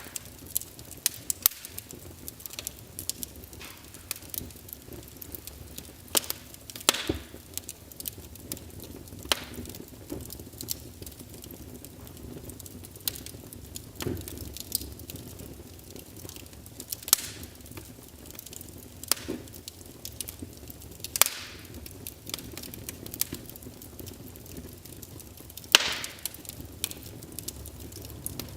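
Logs burning in a fireplace, crackling with irregular sharp pops over a low steady rush of flame, a few pops louder than the rest.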